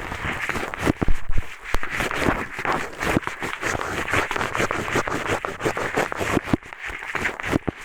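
A pair of eyeglasses scraped and rubbed against the ear of an ASMR microphone as a makeshift ear pick: close, continuous scratching and crackling with many small irregular clicks.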